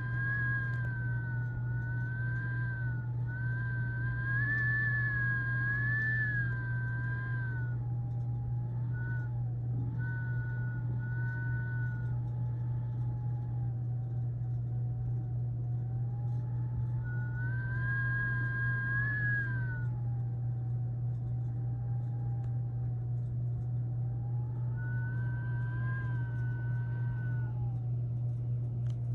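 Blizzard wind howling and whistling, its pitch wavering slowly up and down without a break, over a steady low hum.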